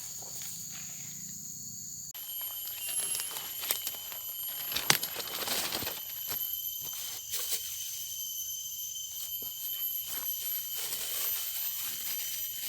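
Steady high-pitched insect drone outdoors, its pitch changing abruptly about two seconds in, with scattered clicks and rustling; one sharp click near the middle is the loudest.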